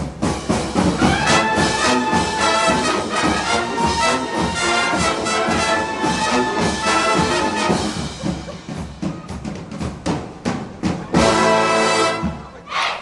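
High-school marching band playing, brass (trumpets and trombones) over drums: a busy brass tune with steady drum strokes, thinning to drum hits and short brass figures, then a loud held brass chord about eleven seconds in that breaks off just before the end.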